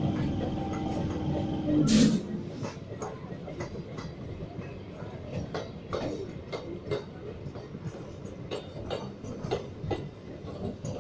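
Train running on rails: a steady hum for about the first two seconds, a loud clank about two seconds in, then a rolling rumble with irregular clicking and clacking of wheels over rail joints.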